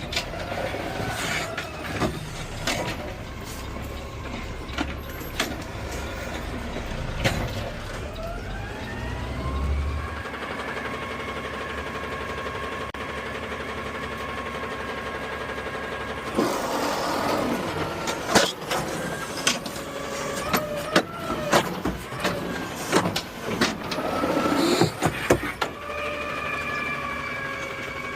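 Peterbilt 520 automated side-loader garbage truck with an Amrep body running. Partway in, a whine rises and then holds steady, and for the last third there is a run of bangs and clatter. This fits the hydraulic arm working a trash cart into the hopper.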